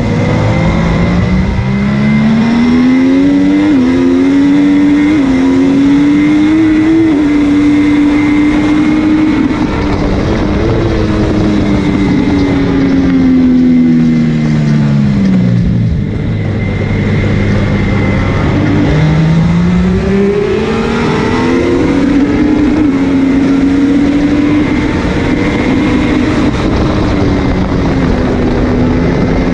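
MV Agusta F3's three-cylinder engine at racing speed, heard from onboard with wind noise. The revs climb through upshifts in the first few seconds and hold high. They then fall away through downshifts for about six seconds and stay low briefly, before climbing through upshifts again from about twenty seconds in.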